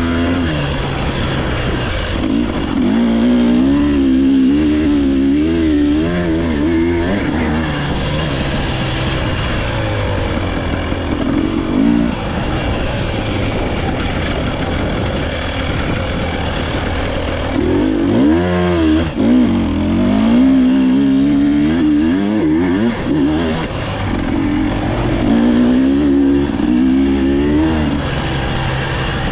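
Dirt bike engine being ridden hard off-road, its pitch rising and falling constantly as the throttle works, with a sharp drop and climb back about two-thirds of the way through.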